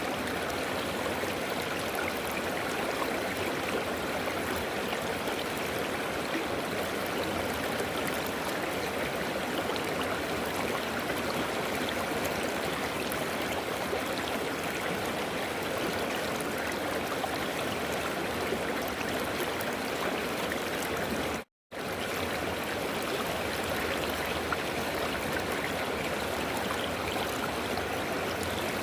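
River water flowing and rushing in a steady, even stream, with one short dropout to silence about three-quarters of the way through.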